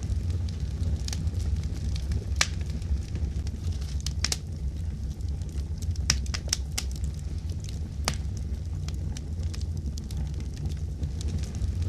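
Fire crackling, with sharp pops scattered irregularly over a steady low rumble; the pops come thickest about halfway through.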